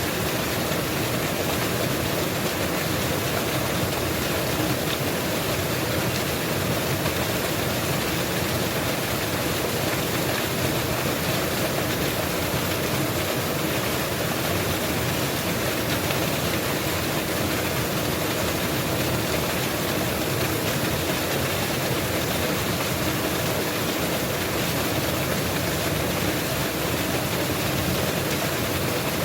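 Mountain waterfall: water falling and rushing in a steady, dense roar that does not change.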